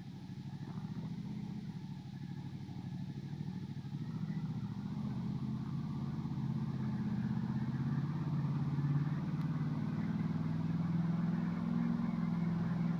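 Ducati Multistrada 1200's L-twin engine running under load on a steep climb, growing gradually louder.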